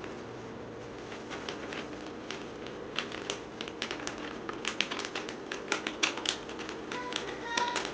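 Light irregular clicks and crinkles of hands handling a cut-open disposable face mask while filling one of its layers with baking soda. The clicks come more often from about three seconds in.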